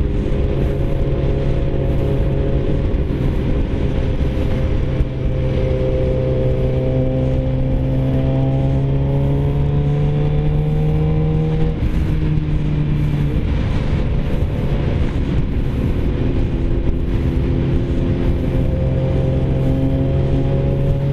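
Four-cylinder sport-bike engine running steadily at road speed, with wind rushing over the bike-mounted microphone. Its pitch rises slowly and shifts briefly near the start and again about halfway through.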